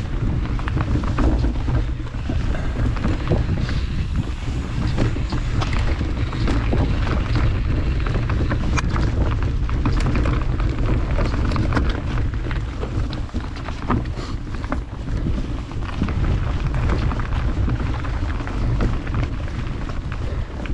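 Wind rushing over the microphone while riding a mountain bike down a dirt trail, with a steady low rumble and frequent clicks and knocks from the bike rattling over rough ground.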